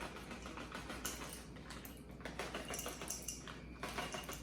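Light, scattered clicks and rattles of chocolate baking chips being dropped into small snack containers.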